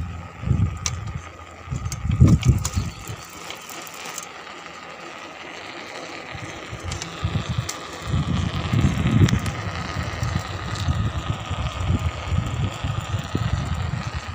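Bicycle being ridden, with wind buffeting the microphone in uneven low gusts and a faint steady whine. A few sharp clicks come in the first few seconds.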